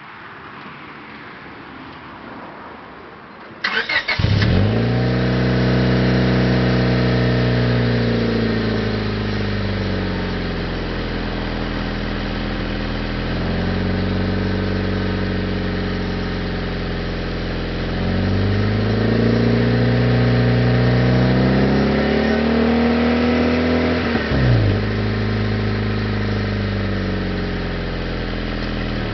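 2000 Honda Civic EX's D16Y8 1.6-litre SOHC VTEC four-cylinder engine, fitted with an aftermarket exhaust, cranked and catching about four seconds in. It then idles, its speed rising and falling slowly twice, with a short sharp change near the end before settling back to idle.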